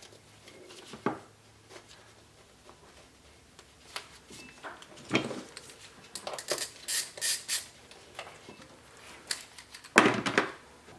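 Hand tools working in a car's engine bay: an 8 mm socket wrench and extension clicking and clinking against metal on the intake hose clamps, with a few sharper knocks and a quick run of clicks in the middle.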